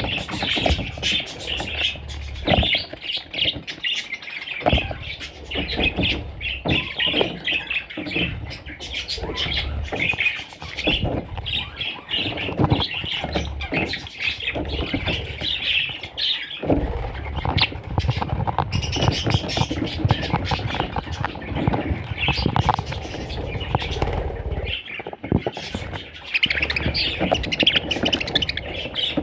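Budgerigars chattering and chirping without a break, with scattered squawks and many short clicks.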